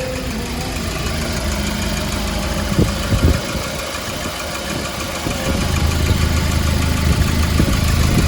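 Diesel engine of a Hyundai Porter II truck idling steadily, with a few sharp knocks about three seconds in, getting louder from just past halfway.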